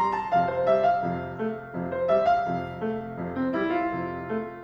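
Solo piano interlude between sung verses, a run of struck notes and chords growing gradually softer.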